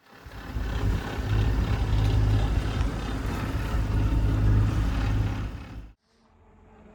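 A sailboat under way at sea: a loud, steady low rumble with a rushing hiss over it, cutting off suddenly about six seconds in.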